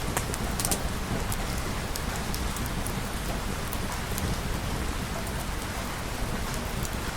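Steady heavy rain falling on a surface, with scattered sharp ticks and crackles, most of them in the first second.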